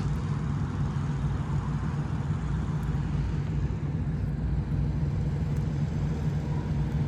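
Steady low engine drone, unchanging throughout, with a faint hiss above it.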